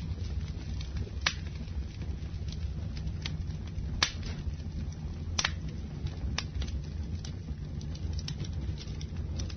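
Campfire burning: a steady low rumble of the flames with scattered sharp crackles and pops from the wood, the loudest about four seconds in.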